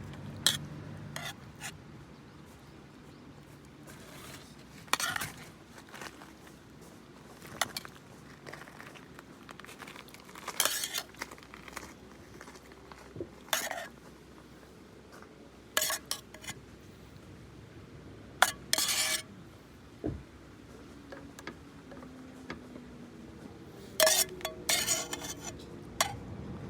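Cutlery and dishes clinking and knocking now and then, short separate clinks every couple of seconds.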